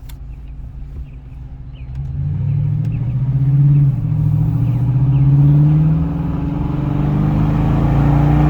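Toyota Tundra pickup's engine running cold, getting louder about two seconds in, its pitch then rising and falling a little as it is revved or driven.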